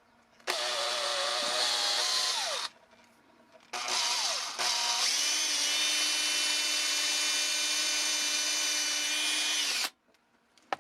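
Small electric drill boring a 1/16 inch hole through a carved wooden hand: a short run of about two seconds that winds down, a brief pause, then a longer run of about six seconds that rises in pitch as it speeds up and stops suddenly.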